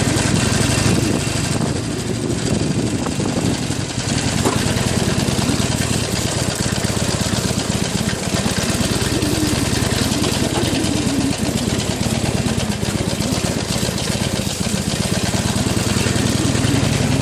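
Harley-Davidson Iron 883N's air-cooled V-twin engine running steadily as the motorcycle rides along a rough track, with a steady hiss over it.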